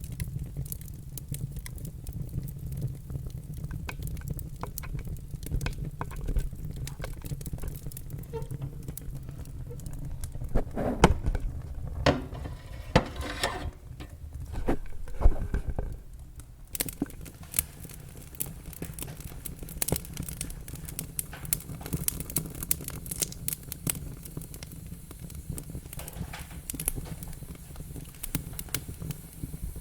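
Log fire burning in a fireplace: a steady low rumble of flames with frequent sharp crackles and pops, and a louder run of pops near the middle.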